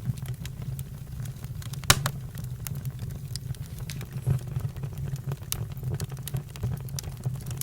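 Campfire crackling: wood burning with irregular sharp pops over a steady low rumble, one louder pop about two seconds in.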